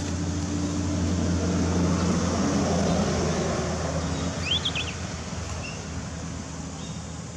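A steady low engine-like hum that swells about two to three seconds in and then eases, with a few brief high squeaks about four and a half seconds in.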